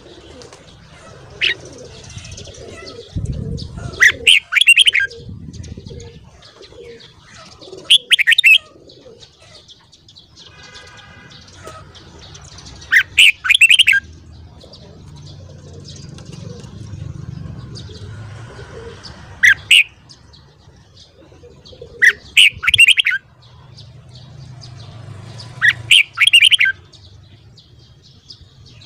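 Red-whiskered bulbul singing short, loud phrases that repeat about every three to five seconds.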